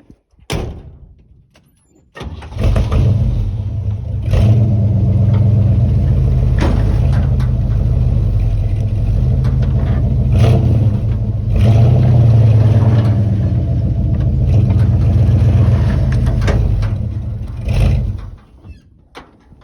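1968 Chevrolet K20 farm truck's engine starting about two seconds in, then running steadily with a couple of small rises in speed before it stops near the end. A single knock comes just before the start.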